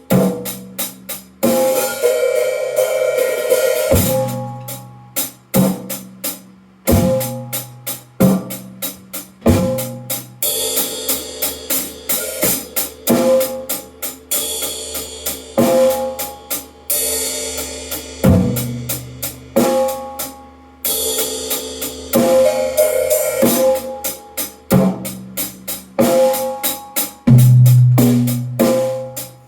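Drum kit played freely, with a dense run of drum strikes, some ringing with a clear pitch, and stretches of cymbal wash over them.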